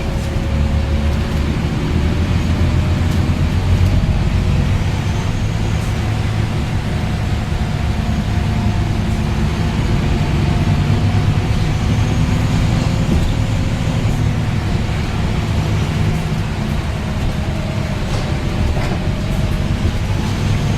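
Scania N230UD double-decker bus's diesel engine running under way: a steady low drone with a faint whine that drifts gently up and down in pitch.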